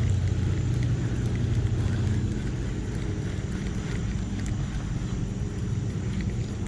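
Low, steady engine rumble, like a motor vehicle running close by, a little louder for the first couple of seconds and then easing off.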